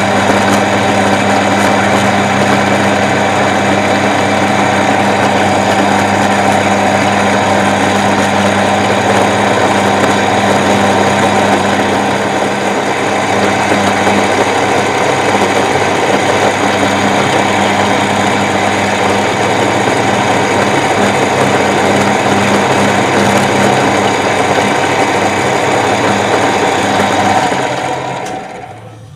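Small milling machine running steadily with a motor hum while its cutter mills a workpiece held in a vise. Near the end the machine winds down and stops.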